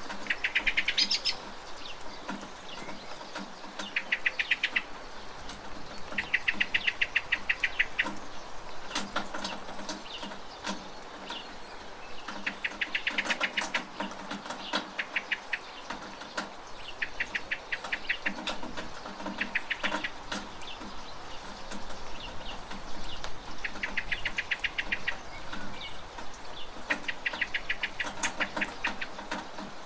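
Steady rain with scattered sharp drips. Over it, a fast pulsing call about a second long repeats every two to three seconds, and these calls are the loudest thing heard.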